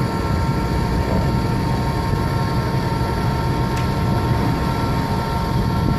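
Concrete pump truck running steadily: a deep, even diesel engine rumble with a thin steady whine over it, and a single short click about four seconds in.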